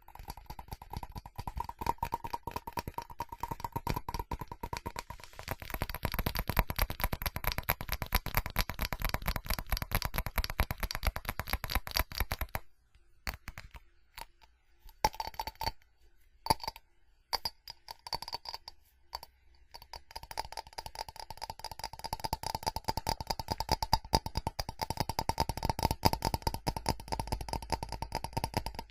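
Fast tapping on a ceramic object, many taps a second, with the ceramic ringing faintly at a steady pitch. For several seconds in the middle the tapping breaks off to a few scattered taps, then picks up fast again.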